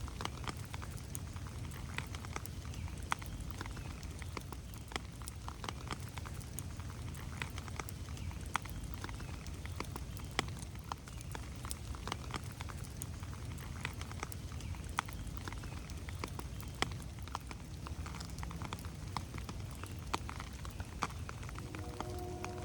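Rain falling in a forest, heard as scattered drops pattering sharply over a low steady rumble. Just before the end a distant train horn starts, a chord of several steady tones.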